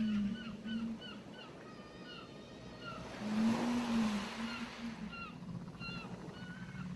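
Seaside ambience: a wave washes in about three seconds in, over many short, quickly repeated bird chirps. Low rising-and-falling hoots sound near the start and again during the wave.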